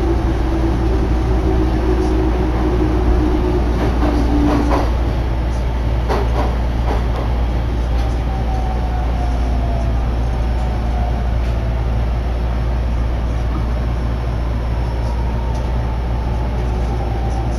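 Inside a JR Sobu Line electric commuter train under way: a steady low rumble of wheels on rail, with a few sharp clacks about four to seven seconds in. From about eight seconds in, a faint motor whine falls slowly in pitch as the train slows for the next station.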